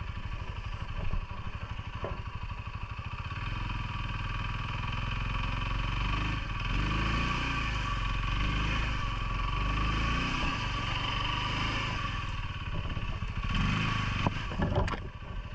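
CFMOTO ATV engine running under changing throttle, its pitch rising and falling, then dropping back toward idle near the end.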